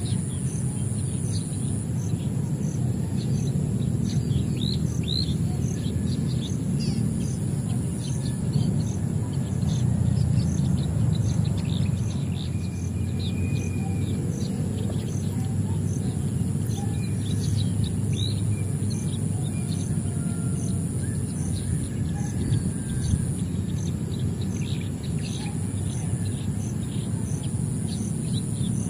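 Small birds chirping, with many short, high calls scattered throughout. Under them is a steady low rumble and a constant high-pitched buzz that pulses evenly.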